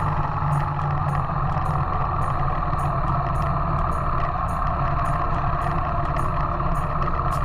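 Yamaha YBR125 single-cylinder motorcycle riding steadily at road speed, engine and wind noise running without change.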